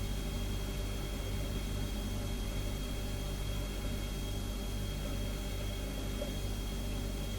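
Refrigerator humming steadily: a low, even drone with a thin high whine above it and a soft hiss, unchanging throughout.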